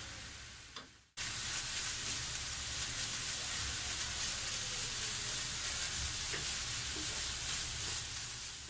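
Grated coconut sizzling in a nonstick frying pan over medium heat, wet with freshly added saffron water, while a wooden spatula stirs it: a steady hiss. The sound cuts out briefly about a second in.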